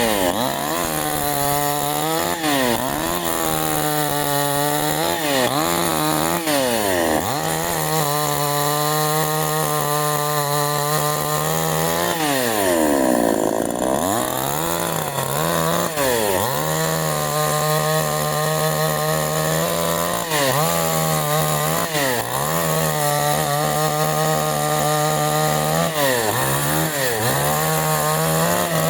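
Canfly 5800 two-stroke petrol chainsaw running at high revs while cutting wood, its pitch dipping briefly again and again as the chain bites into the cut. About halfway through it drops almost to idle, then revs back up.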